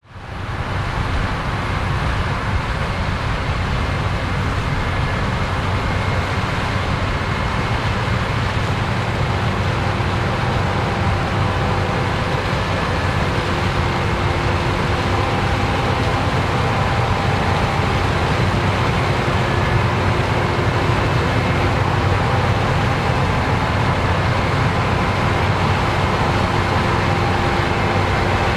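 Heavy farm machinery working a corn harvest: a diesel engine running steadily under load with a dense mechanical hum and a few faint steady whines.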